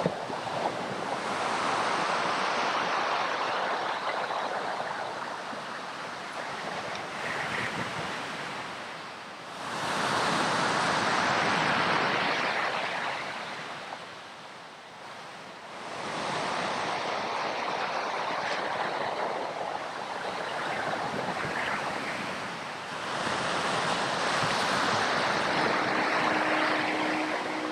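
Ocean surf: waves breaking and washing up a beach, the rush swelling and fading every six or seven seconds.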